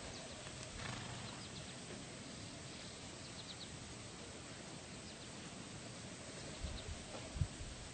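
Faint outdoor ambience with a few short, faint high bird chirps in small clusters.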